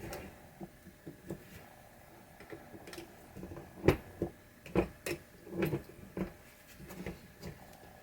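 Irregular small clicks and taps of a hand tool prying against the metal coil stop of a pinball slingshot coil, with a few sharper knocks about halfway through as the part works loose.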